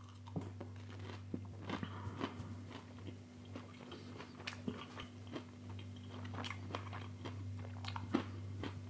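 A person biting into and chewing a breaded pollock fish nugget close to the microphone: irregular small crunches and mouth clicks, over a steady low hum.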